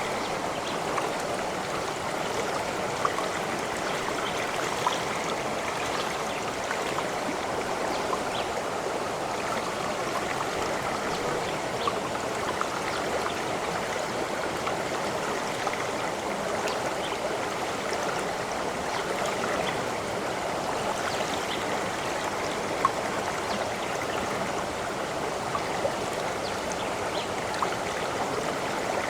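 A stream of water flowing steadily, with a constant rushing and small gurgles and splashes dotted through it.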